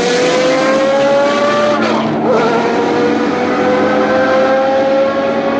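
Race car engine under hard acceleration, its pitch climbing steadily through a gear, dropping on an upshift about two seconds in, then climbing again through the next gear.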